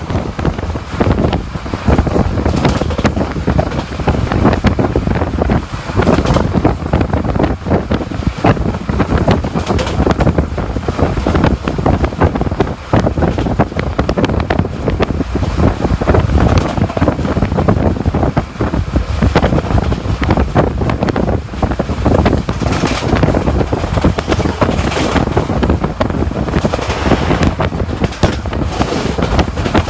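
ICF passenger coach running at speed: wind buffeting the microphone over a continuous rumble of wheels on the rails, with many short clacks throughout.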